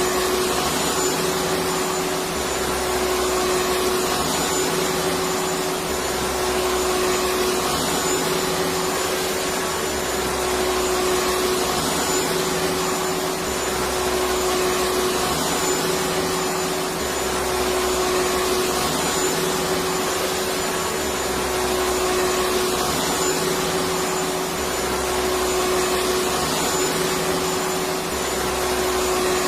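Electric vacuum cleaner running continuously: a steady rushing of air with a constant motor whine. A low hum swells and fades every couple of seconds.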